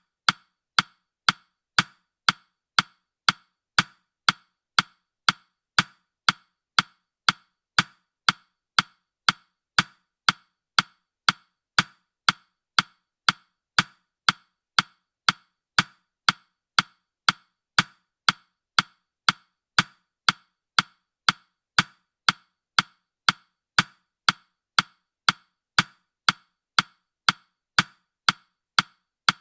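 Clock-ticking sound effect: short, sharp ticks at a steady pace of about two a second, keeping time for a countdown timer.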